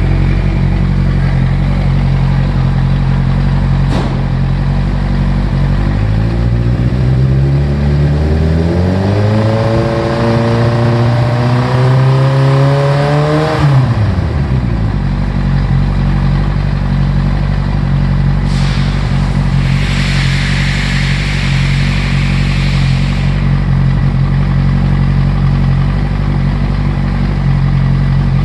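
Yamaha YZF-R1 motorcycle's inline-four engine idling, then revved up steadily for several seconds and released back to idle about halfway through. This is typical of a two-wheeler emissions inspection. A brief hiss comes a few seconds after the engine settles.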